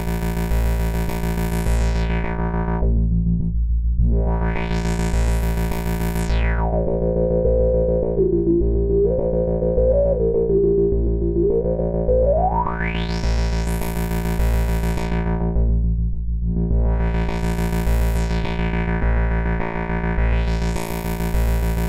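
ADDAC105 4 Voice Cluster eurorack module sounding a dense, steady buzzing cluster of synth tones. Its filter cutoff sweeps down and back up several times, and about a third of the way through a resonant peak wobbles in the low-middle range for a few seconds before the sound opens up again.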